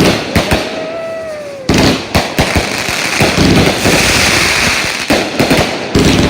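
Fireworks going off with repeated sharp bangs. A whistle falls in pitch about half a second in, then a dense crackling hiss lasts several seconds, and more bangs come near the end.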